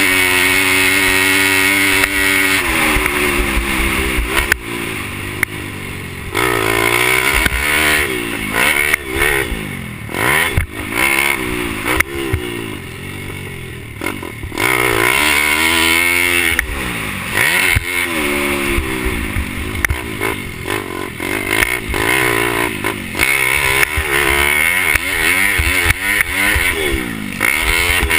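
Pit bike's small single-cylinder four-stroke engine racing, its pitch climbing and dropping again and again as the throttle is worked and gears are shifted, with some clatter and wind noise.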